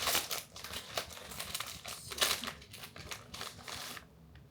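Plastic packaging crinkling and rustling as it is handled, in quick irregular crackles that die away near the end.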